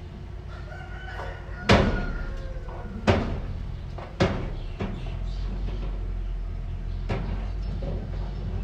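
Heavy machinery's engine running with a steady low hum, broken by five sharp knocks, the loudest about two seconds in. A rooster crows in the background early on.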